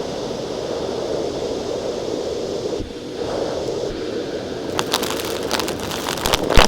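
Vacuum cleaner running steadily. In the last two seconds a run of sharp clicks and rattles comes in as small rocks are sucked up.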